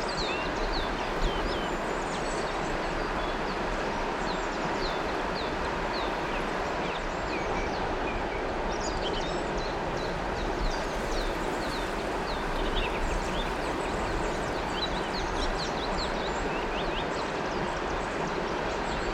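River water flowing steadily, with small birds chirping in short, quick calls that come in scattered clusters over the top.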